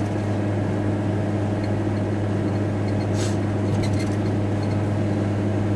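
VW T4 Transporter van's engine and road noise heard from inside the cab while driving, a steady drone.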